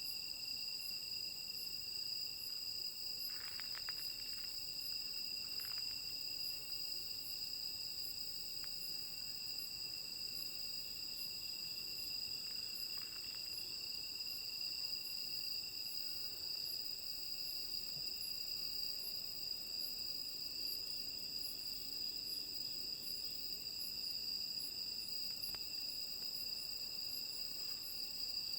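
A night chorus of crickets and other autumn insects: several continuous trills at different pitches, with a higher chirp repeating at an even pace over them.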